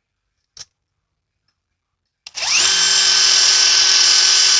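AEG BSS 18C 12Z 18 V brushless impact wrench in auto mode starting up about two seconds in: a rising whine that settles into a steady run as it drives a self-drilling screw. A short tick comes shortly before it.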